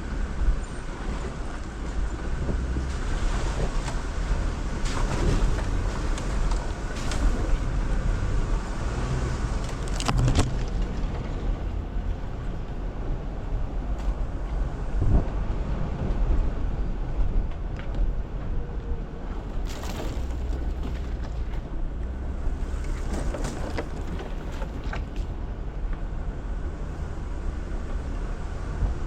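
Jeep Wrangler Rubicon crawling along a rough, snowy trail: a steady low engine and drivetrain rumble with tyre noise, broken by several sharp knocks and clunks as it goes over bumps and rocks.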